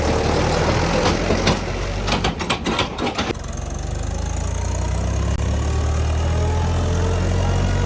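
Tractor diesel engine running steadily, with a quick run of clattering clicks and knocks from about one and a half to three and a half seconds in.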